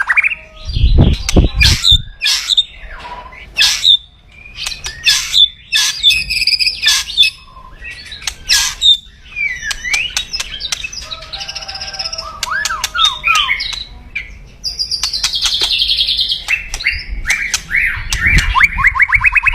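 White-rumped shama (murai batu) calling aggressively: a busy string of sharp clicks, short whistles and gliding notes, building into a fast rattling trill near the end, the 'kretekan' crackle of an agitated bird. A few low thumps come about a second in.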